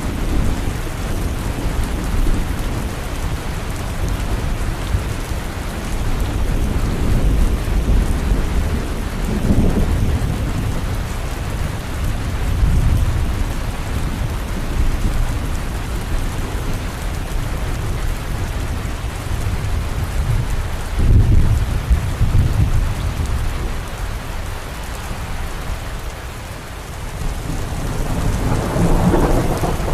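Steady rain with low rolling thunder that swells and fades several times, the strongest rumble a little past two-thirds of the way through.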